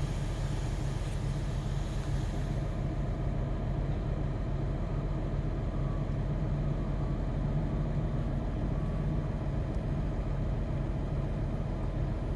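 Semi-truck's diesel engine running steadily, heard from inside the cab as an even low hum.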